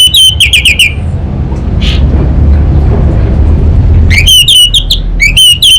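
Orange-headed thrush singing loud, rapid runs of repeated whistled notes in two bouts, one at the start and one from about four seconds in, over a low steady hum.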